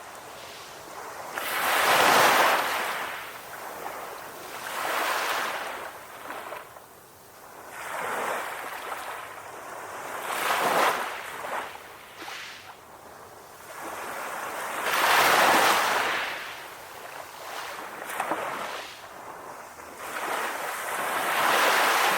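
Calm sea waves breaking and washing onto a shore, a rushing hiss that swells and fades with each wave every few seconds.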